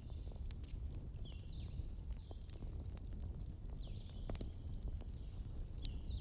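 Wood fire burning with a steady low rumble and scattered sharp crackles and pops, while a series of short high chirps repeats over it, with one longer high call about four seconds in.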